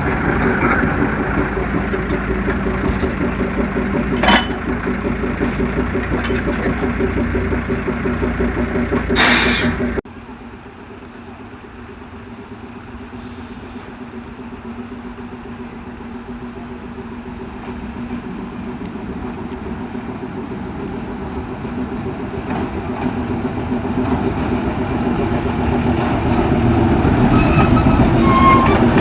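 Narrow-gauge forest railway's Hokuriku Heavy Industries diesel locomotive running steadily, with two brief sharp noises, about four and nine seconds in. About ten seconds in the sound drops suddenly, and then a train's running grows steadily louder as it comes nearer.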